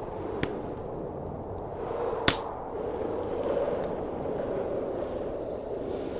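Wood fire crackling in a fireplace, with a few sharp pops, the loudest a little over two seconds in, over a steady blizzard wind.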